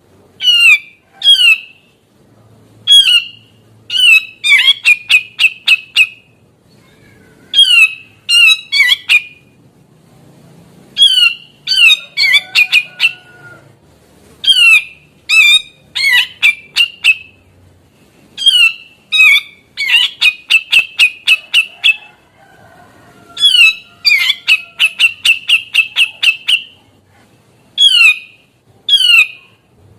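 Brown-cheeked bulbul (cucak jenggot) calling over and over. Sharp down-slurred notes alternate with quick stuttering runs of short notes, in phrases a second or two apart.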